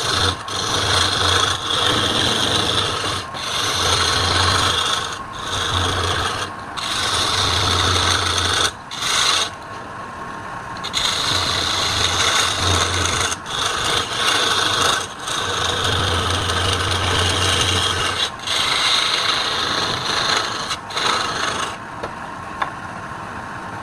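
Wood lathe running while a turning tool scrapes the spinning workpiece in long rasping passes, the tool lifting off briefly every one to three seconds. A low motor hum comes and goes, and the cutting goes quieter near the end.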